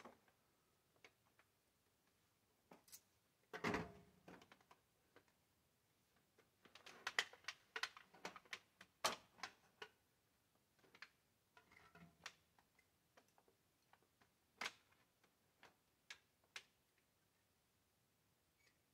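Faint, scattered clicks and short scrapes of thin sheet metal being handled and fitted over a stovepipe, with a busier run of rattling clicks about halfway through.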